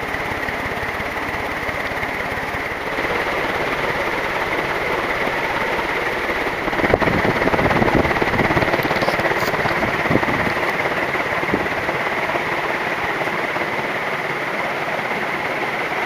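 1983 Canarm 56-inch ceiling fan running at full speed, its three curved metal blades making a steady, loud rush of air, the helicopter-like sound typical of three-metal-bladed fans. It swells a little for a moment about seven seconds in.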